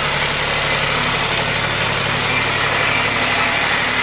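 An engine running at a steady speed, with no revving.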